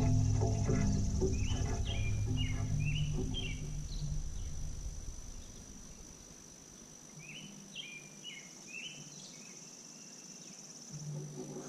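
Steady high insect trill, like a cricket or cicada, with a small bird twice calling a quick run of short chirped notes. A low hum sounds under the first half and fades out about halfway through.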